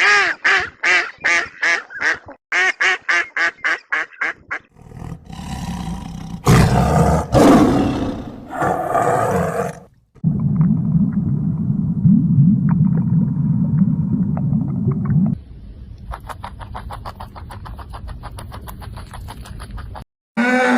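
A run of different animal calls, one after another: first quick repeated calls, then loud roaring, then a low growling rumble, then faint rapid chattering for the last few seconds.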